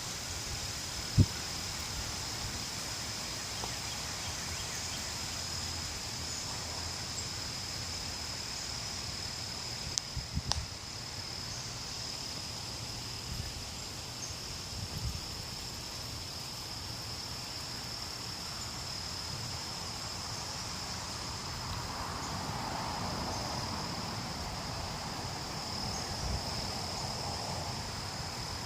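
Gusty wind rumbling on the microphone, with a swell of rushing wind about two-thirds of the way through, over a steady high-pitched insect drone. There is a sharp knock about a second in and a few clicks around ten seconds in.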